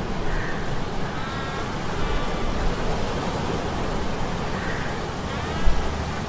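Steady low hum of metal gears mixed with the rushing noise of a sea storm, with faint wavering high tones drifting in and out and a low thud near the end.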